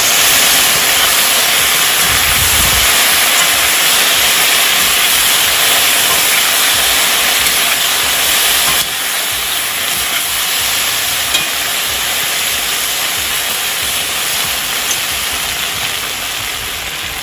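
Diced potatoes frying in lard in a cast-iron kazan give a loud, steady sizzle while they are turned over with a metal spatula. The sizzle drops a little in level about halfway through.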